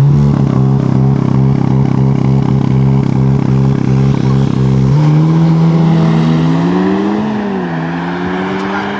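Car engine revved hard and held at high revs with an even pulsing note, then dropping suddenly about five seconds in to a lower note that climbs, dips and climbs again as the revs rise.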